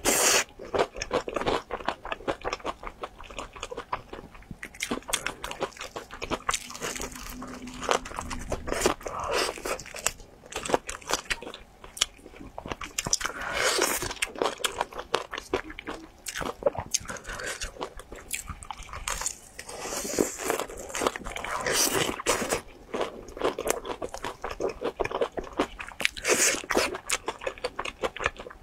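Close-miked chewing and crunching of crispy fried chicken, with dense crackly bites of the breaded coating throughout.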